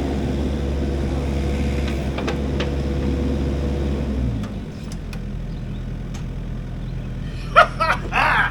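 An engine running steadily under load, its note dropping and easing off about four seconds in, during a rope-and-snatch-block recovery of a mini excavator. Short voice-like sounds come near the end.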